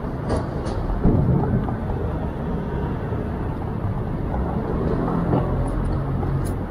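Steady low outdoor rumble with a stronger swell about a second in, and a few faint ticks.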